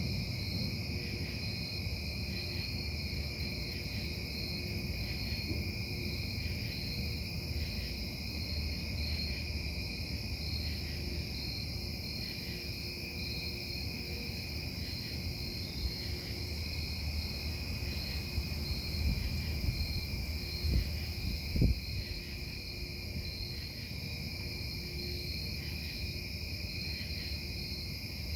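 Steady low industrial rumble and hum from the Casting Solutions metal-casting plant, heard from inside a bedroom, with a high, steady pulsing trill over it. A few dull knocks stand out about 19 to 22 seconds in.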